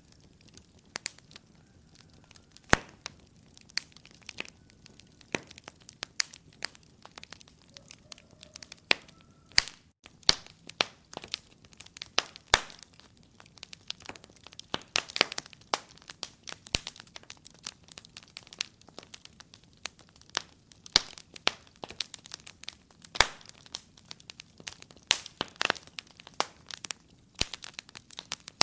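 Wood fire crackling in a fireplace: irregular sharp pops and snaps, some louder than others, over a faint hiss, thickest about halfway through.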